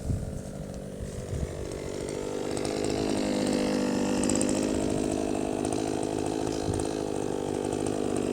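Kioritz 260 two-stroke brush cutter engine running; the throttle opens up about two seconds in and the engine holds a steady high-revving whine.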